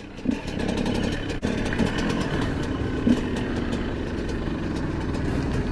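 Motorcycle engine running steadily, with a single sharp click about a second and a half in.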